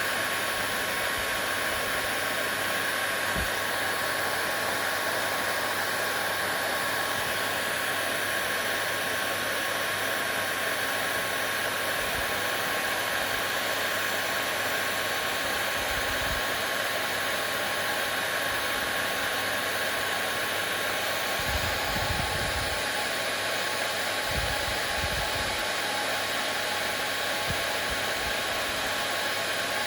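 Hair dryer running steadily: an even rushing whoosh of blown air with a faint steady whine from its motor. A few soft, low bumps come through about two-thirds of the way in.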